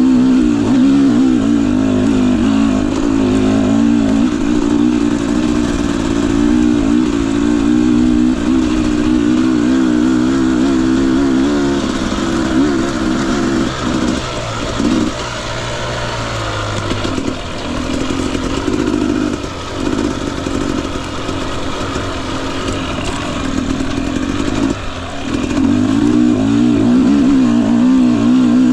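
Husqvarna TE250i two-stroke dirt bike engine running under light throttle, its pitch wavering as the revs rise and fall. About halfway through it eases off into choppy, on-off throttle with short gaps, then picks back up to a steady pull near the end.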